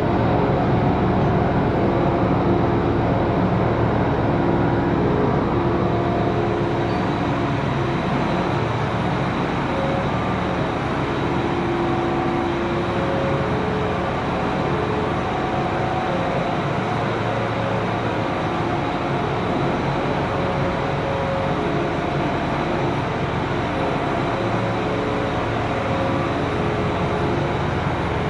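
Diesel engine of a farm machine running steadily at a constant speed, with a slight waver in pitch. It cuts in suddenly at the start.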